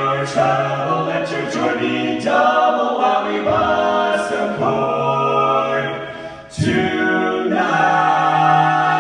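Male barbershop quartet singing a cappella in four-part close harmony, moving through sustained chords. After a brief drop about six and a half seconds in, the voices come back in together and hold a long chord to the end.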